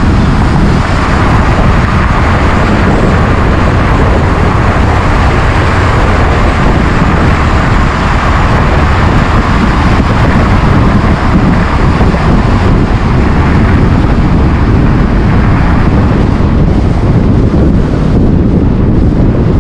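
Loud, steady rush of wind and road noise from a moving car, with wind buffeting the microphone.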